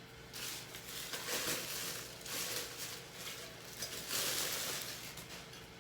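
Rustling and crinkling of packaging handled while a cookware set is unwrapped, coming in several uneven swells.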